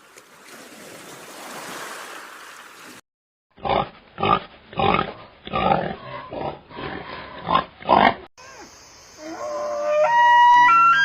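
Animal calls from separate clips: first a few seconds of even outdoor noise, then a series of about nine short grunting calls about half a second apart, then pitched honking calls that step up and down in pitch and grow loudest near the end.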